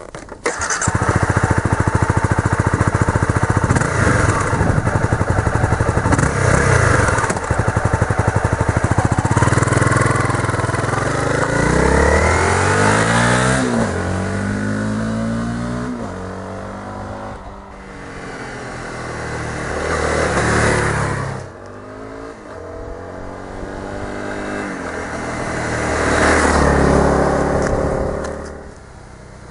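Honda CBR250 motorcycle engine revving: held at high revs for the first ten seconds or so, then blipped up and down several times in rising and falling sweeps, dropping back toward idle near the end.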